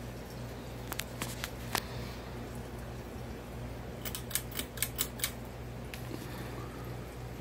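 Encon Princess 42" ceiling fan running with a steady low hum, broken by sharp clicks: a few about a second in, and a quick run of about six more around four to five seconds in.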